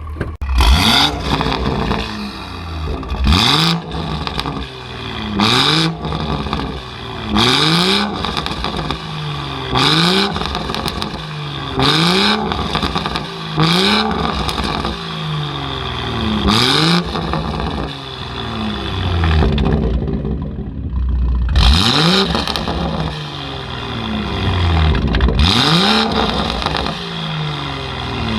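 BMW M140i's turbocharged 3.0-litre straight-six, running through a valved Quicksilver exhaust, revved hard again and again. The engine note climbs and drops back about every two seconds, with a loud harsh rasp at many of the peaks.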